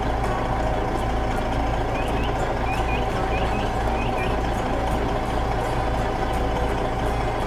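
Heavy vehicle engine idling steadily, a construction-vehicle engine sound effect, with a few faint high chirps about two to four seconds in.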